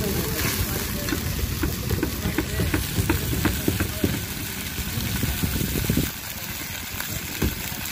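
Onions frying in oil in a pot over a wood fire, sizzling, while a utensil scraping and clicking against the pot stirs them. The sizzle softens about six seconds in.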